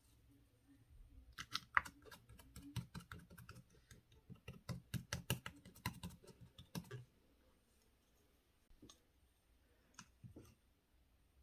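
Slime being squished and poked by hand, giving a fast run of small clicking pops for about five seconds, then a few scattered pops near the end.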